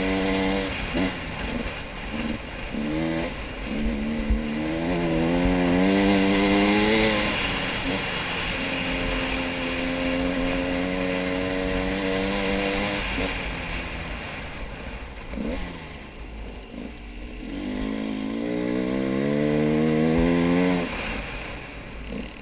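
Motor vehicle engine running, its pitch climbing as it speeds up, holding steady for a few seconds, then climbing again near the end.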